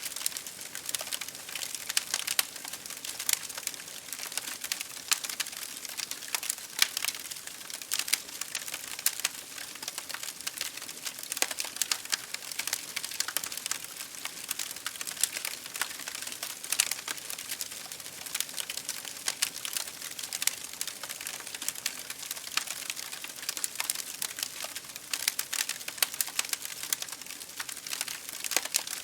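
Wood fire crackling in a fireplace, with dense, irregular pops and snaps over a steady hiss of rain against window glass.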